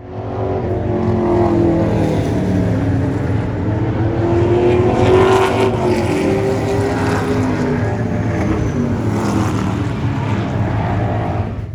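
Stock car racing engine running hard at speed, loud, its pitch rising and dipping as it goes.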